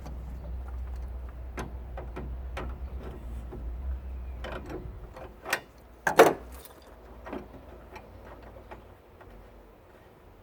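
Irregular metal clinks and knocks from parts of a tankless water heater being handled and worked apart, with one louder clunk about six seconds in.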